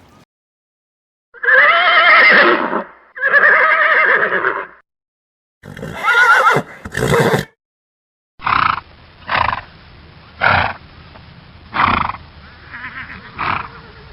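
Animal calls: two long, wavering pitched calls, then two shorter ones, then a string of about five short calls.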